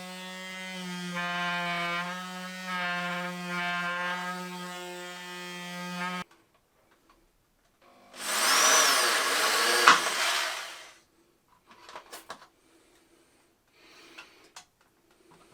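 Power tools at work: a steady electric motor hum that cuts off suddenly about six seconds in. After a short pause comes a loud burst of about three seconds of drilling or cutting, then a few small clicks and knocks.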